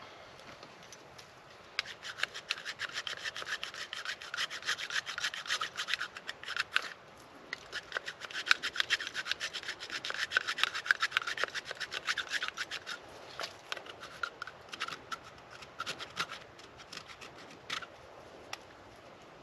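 Knife blade scraping and shaving a piece of fatwood in quick, rapid strokes, in two long runs with a short pause about seven seconds in, then slowing to scattered single strokes.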